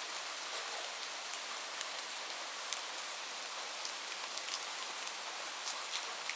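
Steady rain falling, a constant hiss with scattered sharper drop impacts ticking through it.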